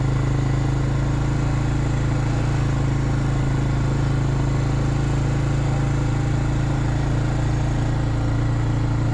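Small engine of a farm bike running steadily at an even, unchanging pitch.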